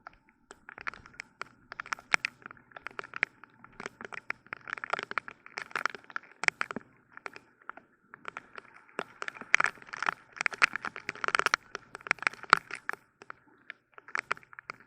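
Heavy rain, large drops striking a hard surface close by as a dense, irregular crackle of sharp taps that swells and eases in gusts, with a brief lull about eight seconds in.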